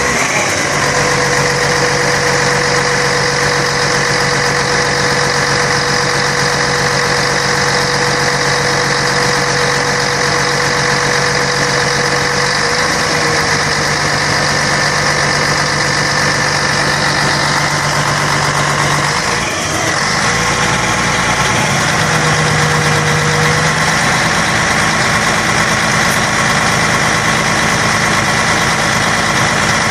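Scania K113 bus's diesel engine running steadily, with a brief dip and change in its note about two-thirds of the way through.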